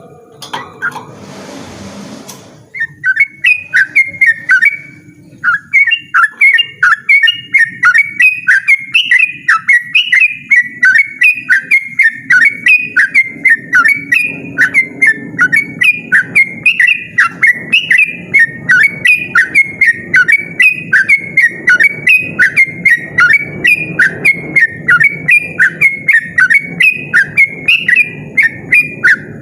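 Yellow-vented bulbul (trucukan) singing a long, loud run of rapid whistled notes, repeated about twice a second without a break. A short burst of rustling noise comes just before the song starts.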